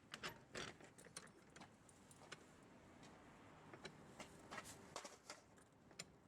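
Faint, irregular clicks and light knocks, a dozen or so, from tools and wheel parts being handled during a tyre change.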